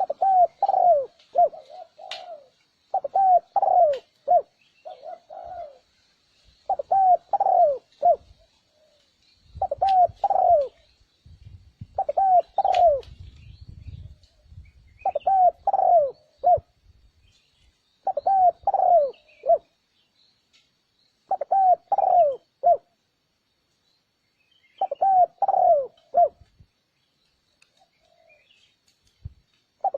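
Spotted dove cooing: repeated phrases of three or four short, falling coos, one phrase about every three seconds, with a longer pause near the end.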